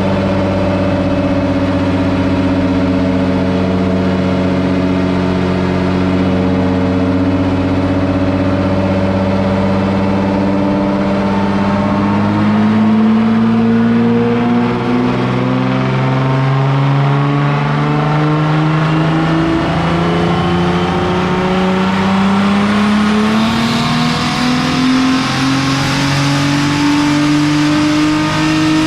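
Audi B5 S4 drift car's turbocharged engine running under load on a chassis dyno. It holds steady for about the first twelve seconds, then climbs slowly and evenly in pitch through the rest of a long pull, with a rising hiss joining in near the end.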